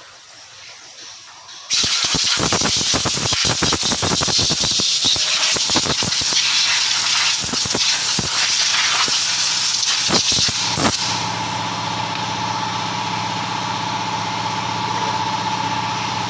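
A loud hissing rush full of rattles starts suddenly and lasts about nine seconds. It then gives way to a steady engine hum at idle.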